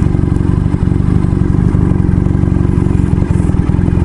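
Motorcycle engine running steadily at low revs, a loud, even low-pitched note with a rapid regular pulse.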